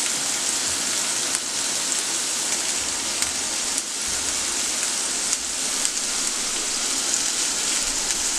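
Two steaks and freshly added sliced onions sizzling in a square nonstick frying pan: a steady hiss with scattered sharp pops.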